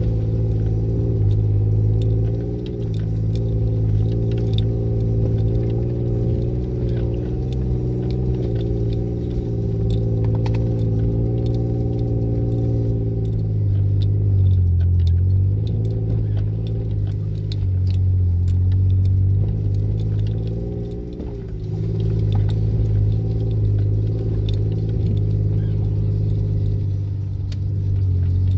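SUV engine running at low speed, heard from inside the cab as it crawls down a snowy trail. Its note dips a few times as the throttle eases, with small rattles and clicks from the cab over the bumps.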